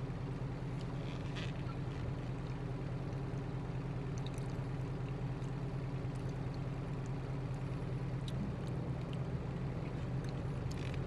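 Truck engine idling steadily, heard from inside the cab, with a few faint light clicks over it.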